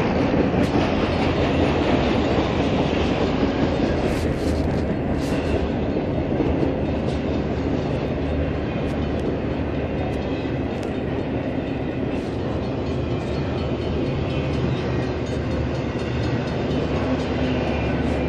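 Train running along the track: a steady rumble with scattered sharp clicks from the wheels and rails.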